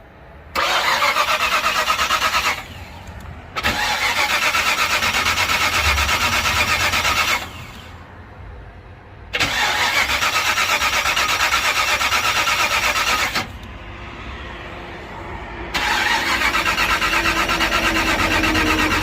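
An old Ford Club Wagon van's starter cranking the engine in four long tries of a few seconds each, with a steady rhythmic turning-over. The engine does not catch. The gas pedal is held to the floor, not pumped, to keep from flooding it.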